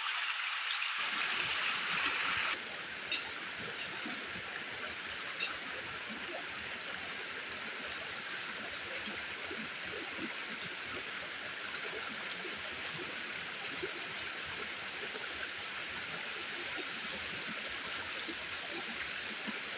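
Steady rushing noise of heavy rain, with fine scattered drop sounds. The hiss drops suddenly to a slightly quieter, steady level about two and a half seconds in.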